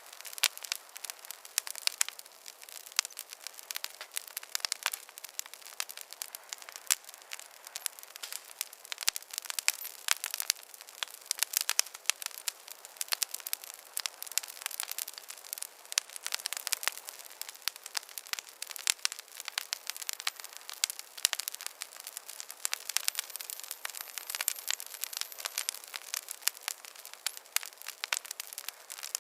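Wood fire crackling in a fireplace: dense, irregular pops and snaps over a soft hiss, with no low rumble.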